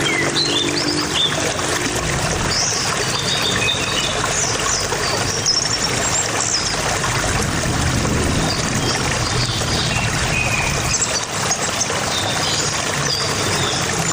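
Steady trickle of running water, with small birds chirping in short, high calls on and off throughout.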